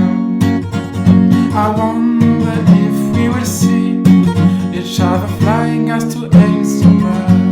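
Acoustic guitar strumming chords in a song's instrumental closing passage, with no singing.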